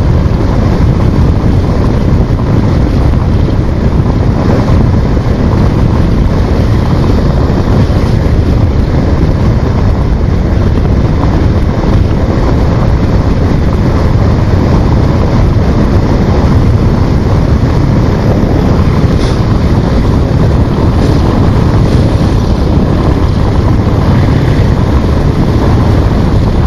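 Steady, loud rush of wind buffeting the microphone on a moving motorcycle, with the bike's running noise underneath.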